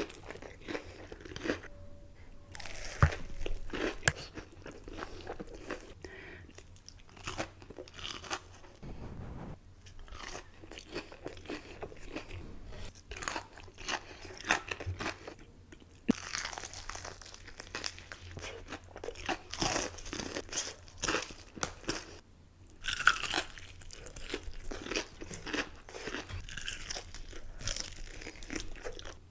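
A person biting and chewing crunchy food, with repeated irregular crunches and short pauses between bites.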